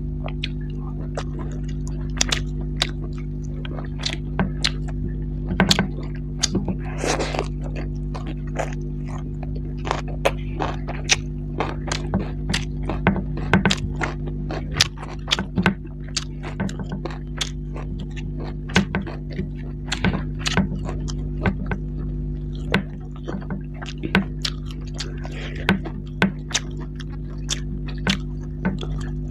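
Close-miked wet chewing and lip smacking of someone eating curry and rice by hand, many irregular clicks and smacks. A steady low hum runs underneath.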